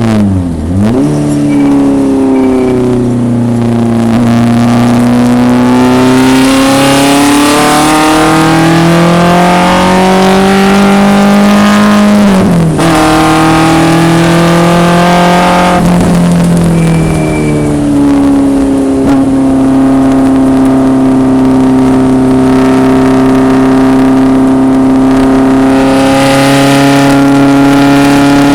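BMW 2002 racecar's four-cylinder engine pulling hard under throttle on track, its pitch climbing through the revs. It dips sharply near the start, around halfway and again a few seconds later as gears change, then holds at a steady high pitch.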